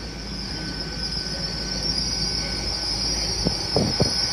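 GWR Class 802 IET train pulling into the station with a steady high-pitched squeal that grows louder, and a few sharp clicks near the end as it passes.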